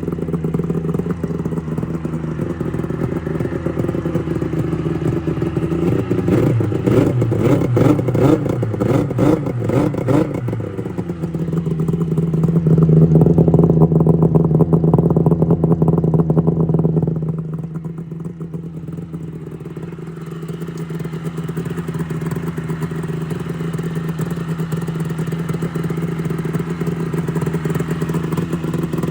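Three-cylinder two-stroke snowmobile engine running in place, revved up and down unevenly for a few seconds, then held at higher revs for about six seconds before dropping back to a steady idle. The owners call the sled slow and suspect a damaged cylinder.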